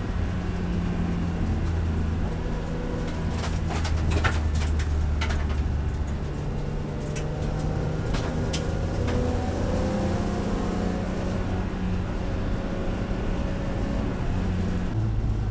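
BMW E46 M3's S54 3.2-litre straight-six heard from inside the cabin, cruising in fourth gear on light throttle, its steady drone dipping in pitch a few seconds in and rising again later. A few sharp clicks come through between about three and nine seconds in.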